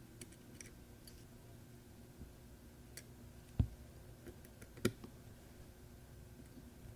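Faint, scattered clicks and taps of small metal parts and tools on a pocket watch movement as the crown wheel is fitted, with two louder taps a little after halfway.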